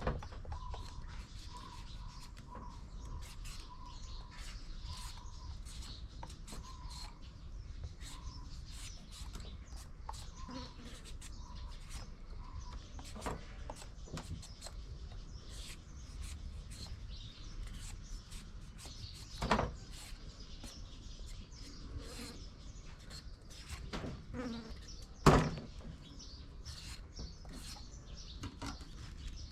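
Birds chirping, with a short high note repeating at a steady pace for the first third, over light background noise and scattered small clicks. Two sharp knocks stand out, one about two-thirds of the way through and a louder one near the end.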